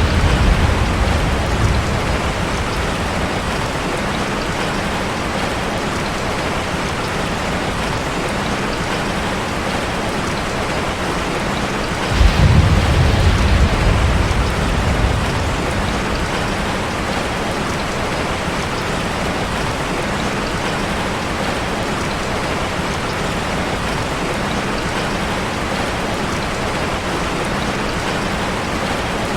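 Steady rushing water of a waterfall ambience, an even wash of noise, with a low rumble swelling for about three seconds about twelve seconds in.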